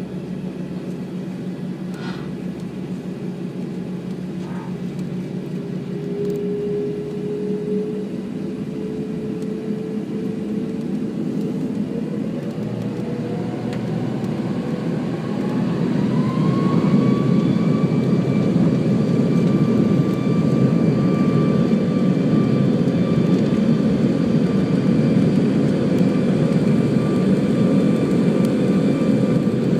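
The four Rolls-Royce Trent 500 turbofan engines of an Airbus A340-600 spooling up for take-off. A steady engine hum gives way, about twelve seconds in, to a rising whine as thrust builds. After about seventeen seconds it levels off into a louder, steady run.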